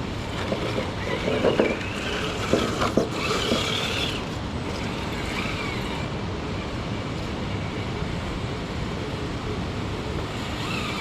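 Traxxas TRX-6 6x6 RC crawler's electric motor and drivetrain whining in short throttle bursts over the first few seconds, with a few knocks as the tyres work over the rock. After that, only a steady rushing background noise.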